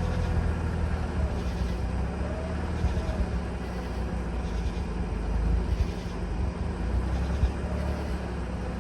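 Mazda RX-8's Renesis two-rotor rotary engine running steadily near idle, held at about 1,000 rpm by the accelerator. The engine was flooded and has just been revived, and it won't hold idle on its own: it wants to die when the pedal is let off.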